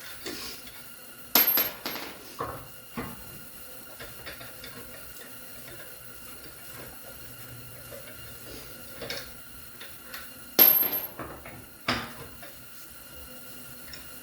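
Sharp metallic clanks and knocks from tools and parts during wheel removal. They come in two clusters: one about a second in, the other near the end, each a loud strike followed by a few lighter ones.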